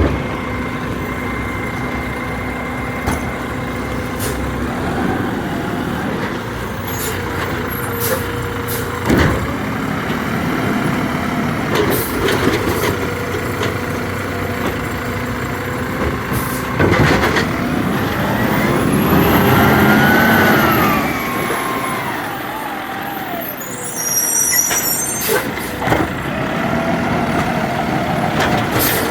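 Recycling truck's engine running steadily, with several sharp clunks and, about two-thirds of the way through, a whine that rises and then falls over a few seconds.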